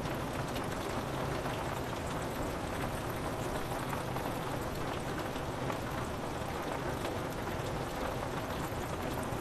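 Steady rain falling on a window, an even hiss with scattered small drop ticks and no thunder.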